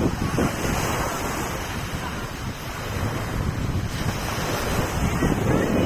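Sea waves washing ashore, with wind buffeting the microphone; the wash eases a little midway and builds again near the end.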